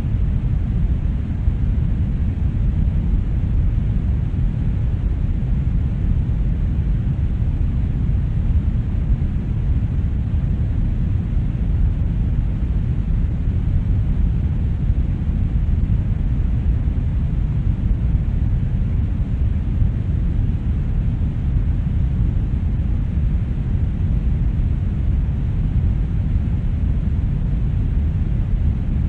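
Steady brown noise: a deep, even rumbling hiss, strongest in the low end, with no changes or events.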